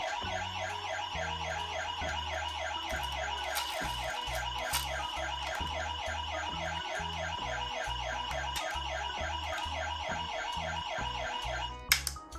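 Toy ambulance's electronic siren sounding a fast, steady warble, then cutting off abruptly near the end.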